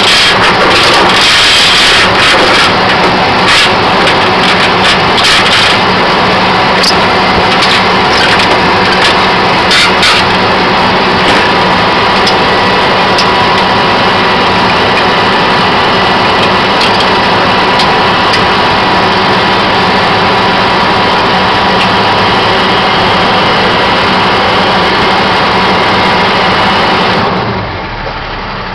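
Flatbed tow truck's diesel engine running steadily, with a steady whine over it and a few sharp metallic clanks in the first several seconds. Near the end the sound drops in level and turns duller.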